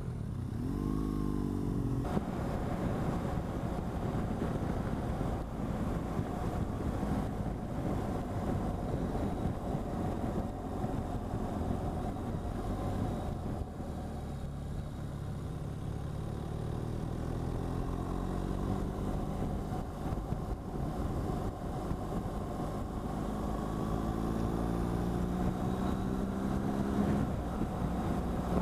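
BMW R1200GS boxer-twin engine heard from the rider's seat, pulling away briefly at the start and then rising steadily in pitch as it accelerates for about ten seconds before easing off near the end. Wind and road noise on the microphone run underneath throughout.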